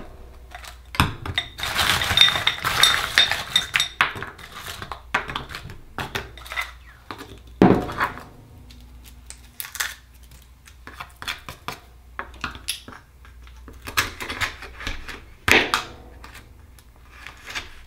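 Akoya oysters being opened by hand: a metal tool clinks and scrapes against the shells, with scattered sharp clicks and a few louder knocks. A denser stretch of scraping runs for about three seconds starting a second in.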